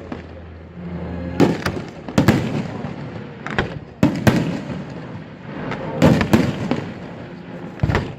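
Fireworks display: aerial shells bursting in a string of about ten sharp bangs, some in quick pairs, with crackling and a rumbling echo between them.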